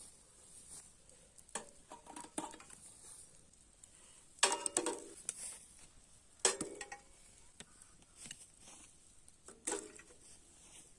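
Scattered knocks and clinks of cooking utensils and dishes being handled, with three louder clatters about four and a half, six and a half and nearly ten seconds in.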